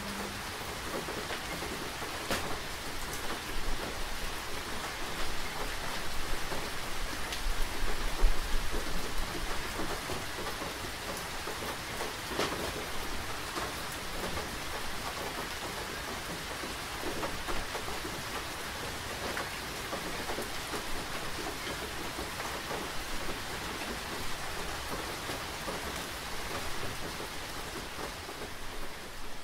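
Steady rain falling, with occasional sharper drops ticking on a surface and a brief low rumble about eight seconds in.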